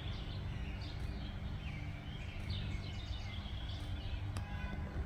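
Birds chirping and singing in short repeated phrases over a steady low background rumble.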